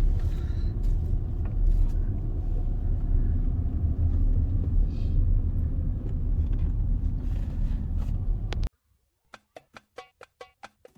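Steady low rumble of a car driving, heard from inside the cabin, which cuts off suddenly near the end. Then a run of short, soft percussive ticks follows as music begins.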